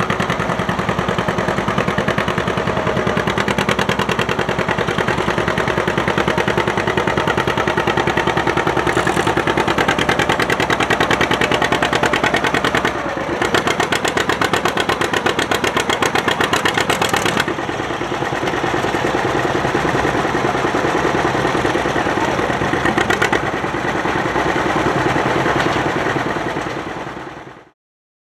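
Antique farm tractor engine running loud and steady, its firing pulses clearly spaced, with two short dips in level partway through. It fades out shortly before the end.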